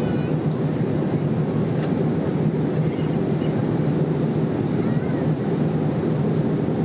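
Steady cabin noise of a Boeing 787-8 in flight: an even low rush of engine and airflow noise with a constant hum, with faint voices in the cabin.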